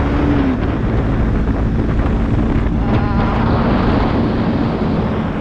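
Bajaj Pulsar NS200 single-cylinder engine running at a steady cruising speed, with heavy wind noise on the microphone.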